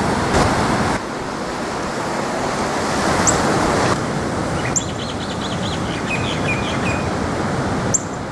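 Small birds chirping: a few short, sharp high chirps and a run of quick twittering notes about halfway through, over a steady rushing background noise.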